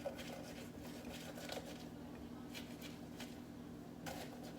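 Spatula scraping thick, half-blended protein ice cream off the sides of a Ninja blender jar: faint, irregular scrapes and squishes, over a steady low hum.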